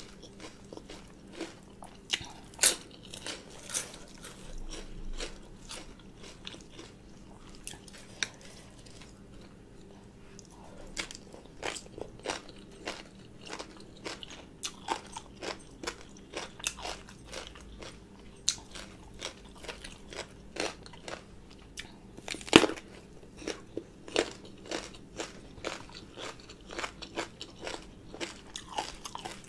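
A person chewing mouthfuls of spicy green papaya salad with raw shrimp: a string of crisp crunches and wet mouth clicks, several a second. There is a quieter lull about a third of the way in and one loud crunch about three quarters through.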